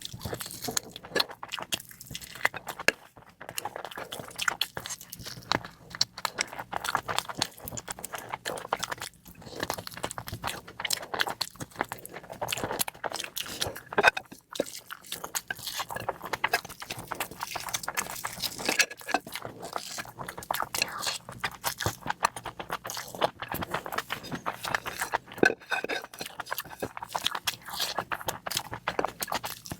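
A person chewing and biting food close to the microphone: a dense, continuous run of small clicks and mouth smacks.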